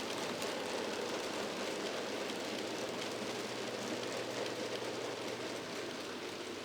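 N gauge model Class 56 locomotive running over the track with a train of empty MGR wagons: a steady rumble of small wheels and motor with a fine crackle, easing off slightly near the end.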